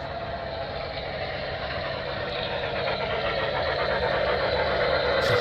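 Model Norfolk & Western Y6 locomotive running along the layout track, a steady rolling and running sound that grows gradually louder as it approaches.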